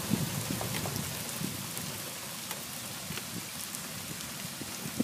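Steady rain falling, with scattered drops hitting a surface close by; the close hits come thickest in the first second.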